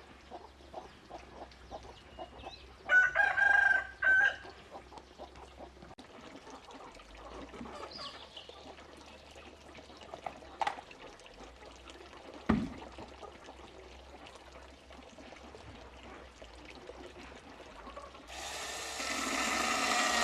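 A rooster crows once about three seconds in, with chickens clucking softly around it. Near the end a loud, steady mechanical noise starts up.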